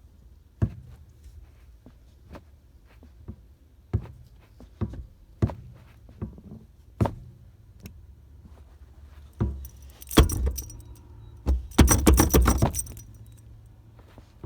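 Car pedal pumped with the engine off: scattered single knocks and thumps of the pedal, then keys jangling in two short bursts in the last third, the second the loudest.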